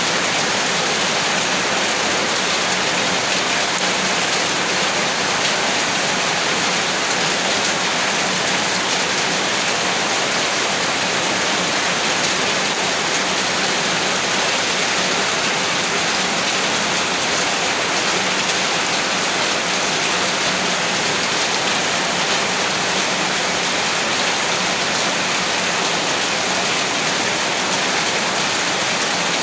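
Heavy rain falling steadily as a dense, even hiss, with no thunder or letup.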